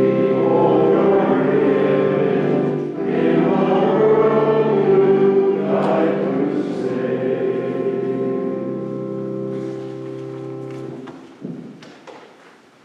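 A choir singing the final phrases of a hymn with an instrument holding sustained chords. The last chord is held and ends about 11 seconds in, leaving the hall's echo and a few faint knocks.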